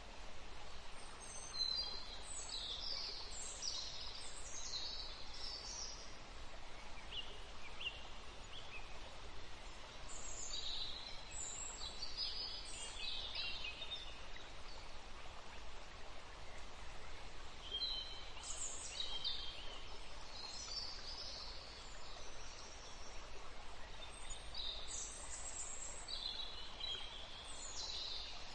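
Birds chirping in short spells, high-pitched, over a steady background hiss.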